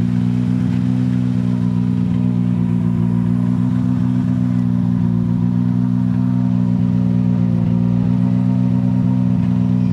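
Rally car engine idling steadily, an even low drone with no revving.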